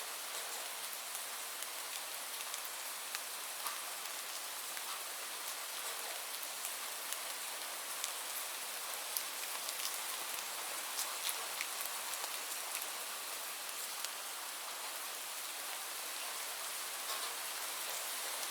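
Steady rainfall: an even hiss with many individual drops ticking sharply at irregular moments.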